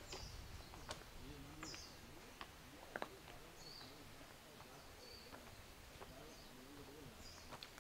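Birds chirping: short high calls repeated every second or two, with a few faint sharp clicks in between, the loudest about three seconds in.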